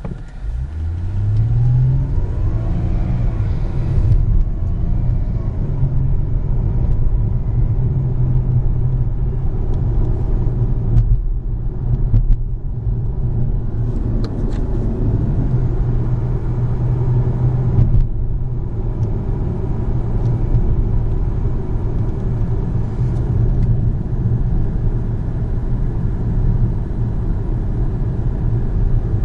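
The 3.0-litre supercharged V6 of a 2015 Jaguar XJL, heard from inside the cabin while driving. Its pitch rises over the first couple of seconds as the car pulls away, then it settles into a steady low drone with road rumble.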